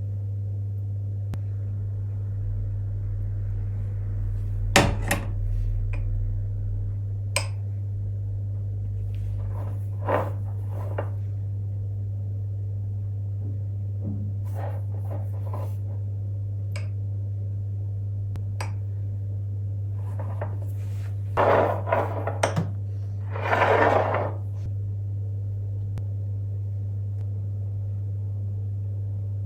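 Dishes and cutlery being handled and set down: scattered knocks and clinks, a quick cluster of clatters about three-quarters of the way in, then a short scraping rustle, over a steady low hum.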